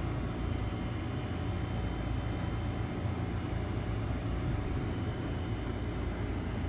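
Steady low hum and rumble of room background noise, with no distinct events.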